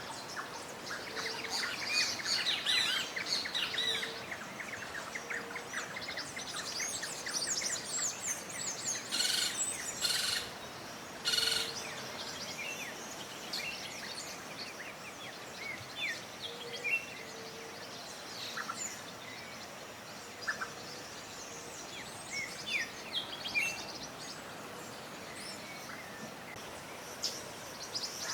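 Several wild songbirds chirping and trilling together, a busy mix of calls in the first half that thins out to scattered chirps. A few short, harsh bursts come around the middle.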